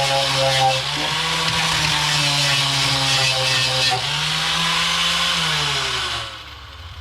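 Angle grinder with a fiber sanding disc grinding down steel bodywork. The motor whine dips and recovers in pitch as it is pressed into the metal, over a harsh grinding hiss. About six seconds in it is switched off and winds down. The disc is nearly worn out.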